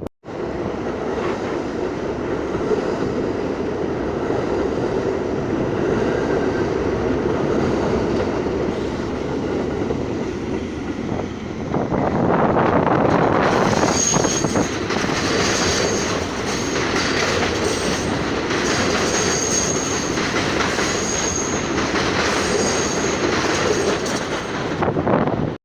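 R42 subway train running through the station with a steady rumble and clatter of wheels on rail. About halfway it grows louder, and high wheel squeals come and go.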